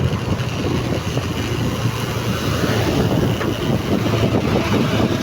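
Motorcycle riding along at speed: a steady engine and road rumble mixed with wind rushing over the microphone.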